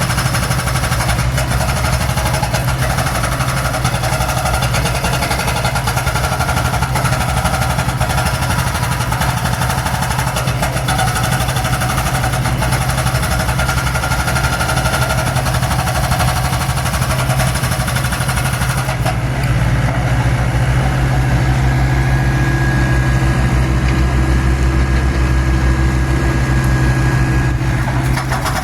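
Mini excavator's diesel engine running steadily. About two-thirds of the way through, the note turns deeper and duller.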